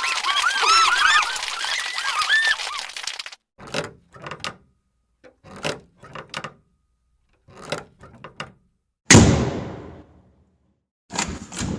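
A run of stock sound effects: a flock of birds calling for the first three seconds, then knocking in groups of two or three taps about every two seconds, one loud crash about nine seconds in that dies away over about a second, and another knock group near the end.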